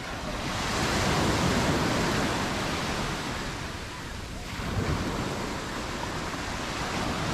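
Mediterranean surf: a wave breaks and washes up the beach, swelling about a second in and fading by about four seconds, then the next wave breaks just before five seconds.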